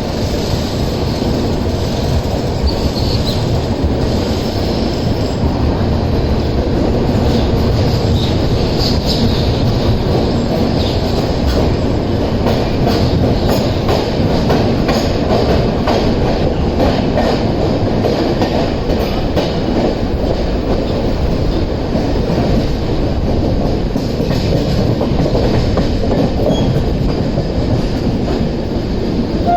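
Express passenger train running on the track: a steady, loud rumble and rattle of the coaches, with faint scattered clicks from the wheels.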